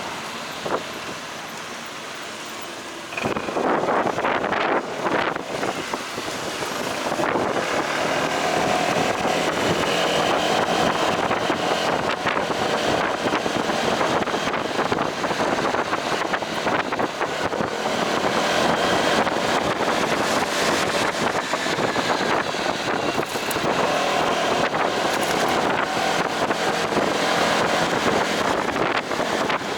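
Delivery motorcycle riding, engine running under heavy wind noise on the microphone. The sound grows suddenly louder about three seconds in and stays loud and steady.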